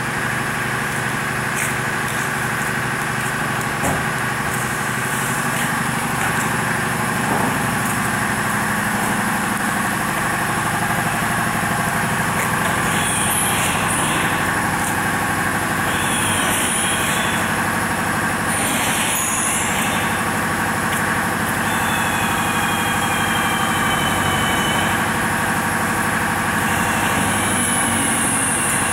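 Semi truck's diesel engine idling steadily, with a few brief high squeaks and faint whistling glides over it in the second half.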